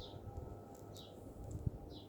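Arlec ceiling fan running, with a short high squeak that falls in pitch, repeating evenly about once a second, over a low rumble, and a single click near the end.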